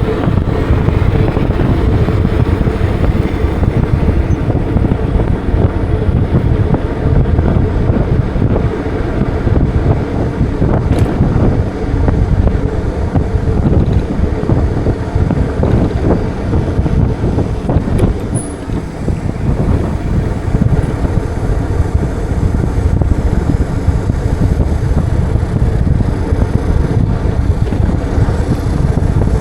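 Wind rumbling steadily on the microphone of a moving bike, mixed with road traffic.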